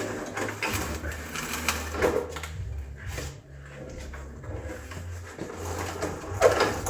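Irregular knocks and clatter of equipment being handled and moved, over a steady low hum, with a louder knock about two seconds in and another near the end.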